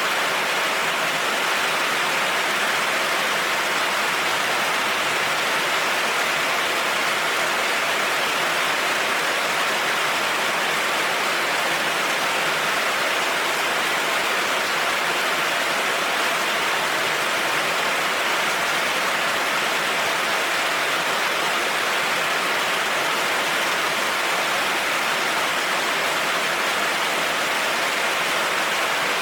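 Heavy rain falling steadily on a road, an even hiss with no thunder.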